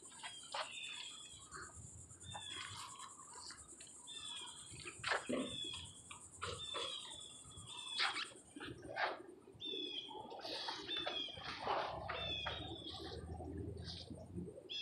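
A small bird chirping over and over in short, high, falling notes, with scattered light knocks and a steady high-pitched hiss that stops about halfway through.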